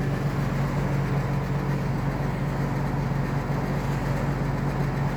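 Tractor engine running steadily with a constant low hum, under the noise of heavy rain and strong wind.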